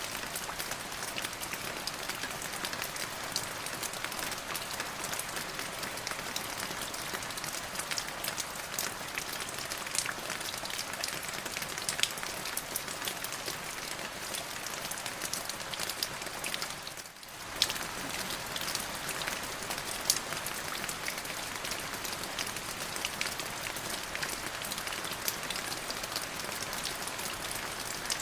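Steady rain falling, with many separate drop hits ticking through a continuous hiss. The sound dips briefly about two-thirds of the way through, then comes back with a sharp tick.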